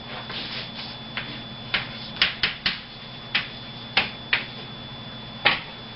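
About ten sharp clicks at irregular intervals, over a steady low hum.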